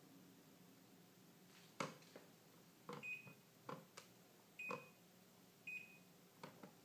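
Plastic air-conditioner control buttons clicking as they are pressed, several times, with the unit answering three of the presses with a short, high beep.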